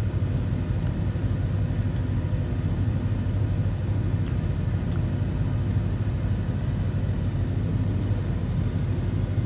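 Steady low vehicle rumble, like a car engine running at a constant speed, with no change in pitch.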